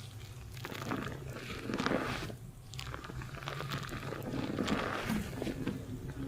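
Fingers scrubbing a lathered scalp in a shampoo, giving crackly, squishing foam-and-hair sounds in irregular strokes.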